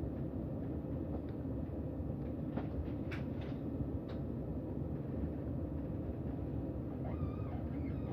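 Steady low rumble of a c2c electric passenger train, with a few faint clicks and a brief wavering tone near the end.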